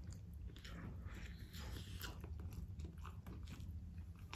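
A person chewing a mouthful of KFC Zinger chicken burger: faint, irregular, wet mouth noises with many small clicks.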